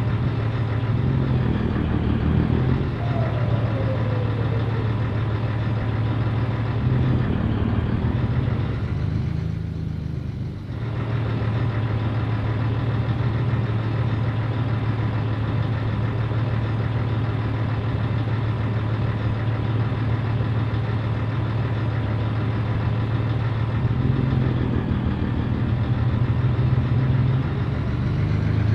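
Scania 113 truck's 11-litre straight-six diesel engine running steadily, with a short drop in its sound about ten seconds in.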